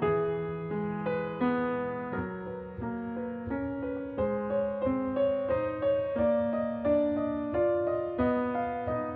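Background music: a gentle, slow piano piece, single notes and chords struck about twice a second, each fading before the next.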